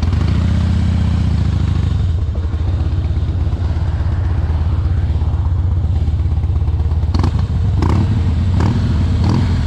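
Harley-Davidson V-twin motorcycle engine running at idle with a low, steady rumble, rising briefly in the first two seconds. A few short sharp sounds come about every 0.7 s in the last three seconds.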